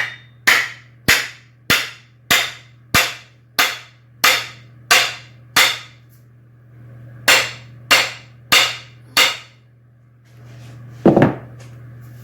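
Sharp hammer blows on the wooden handle of an axe as the head is worked onto it during fitting. There are about ten evenly spaced blows, a short pause and four more, then a duller clatter near the end.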